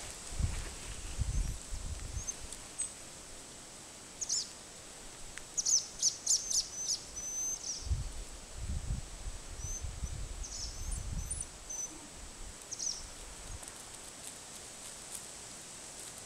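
Small birds chirping in short, high calls, a quick cluster about six seconds in and single chirps elsewhere, over a faint outdoor background. Low rumbling on the microphone near the start and again in the middle.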